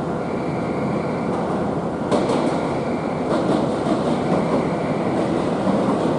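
Train running along the track, a steady rumble with a run of wheel clicks over rail joints starting about two seconds in.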